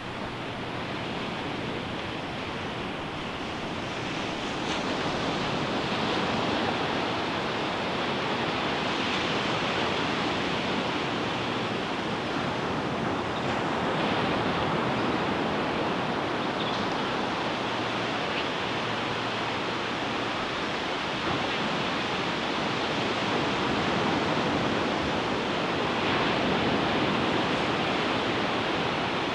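Ocean surf breaking and washing up a sandy beach, a steady rushing wash that swells and eases every few seconds as each wave comes in.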